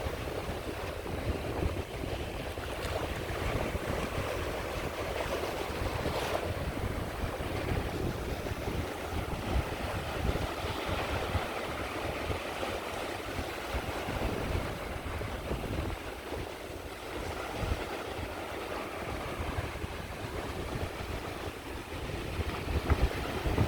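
Sea waves washing onto a beach in a steady wash of surf, with wind rumbling on the microphone.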